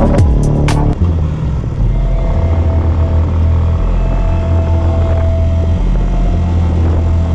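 Background music with a beat stops about a second in, giving way to a Yamaha motorcycle engine running steadily at cruising speed.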